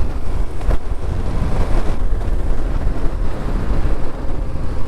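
Wind rushing over the microphone on a moving motorcycle, over the steady low drone of the bike and road at riding speed.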